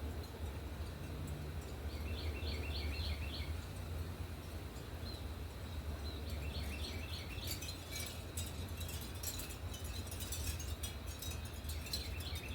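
Small birds calling in short rapid series of chirps, twice, over a steady low rumble. From about eight seconds in, many sharp high ticks or clinks join them.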